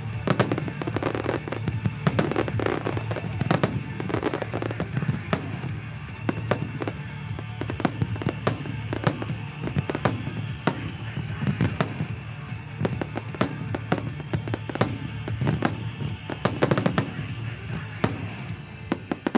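Fireworks display: a rapid run of shell bursts and launch reports with crackling, and music playing alongside throughout. The loudest volley comes at the very end.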